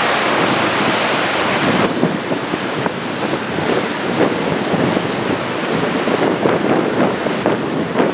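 Heavy typhoon-swell surf breaking and washing, with wind buffeting the microphone. The bright hiss of breaking water drops away sharply about two seconds in, leaving a gusty, fluttering rumble of wind and surf.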